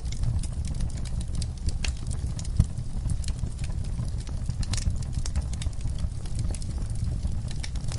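Wood fire in a fireplace crackling, with frequent irregular sharp pops over a low, steady rumble of flames, and one louder pop about two and a half seconds in.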